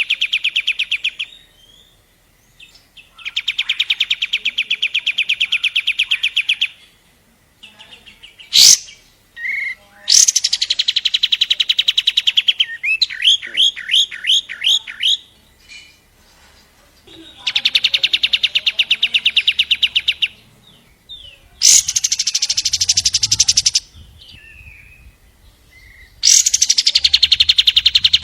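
Long-tailed shrike (cendet) singing: long bursts of fast, rattling trilled chatter a few seconds each, repeated after short pauses, with a run of separate rising notes about halfway through. A single sharp click about a third of the way in.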